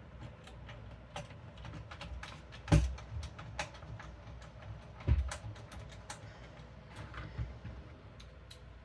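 Hands working on computer parts and cables inside a PC case: scattered light clicks and taps, with two louder knocks, about three seconds in and about five seconds in.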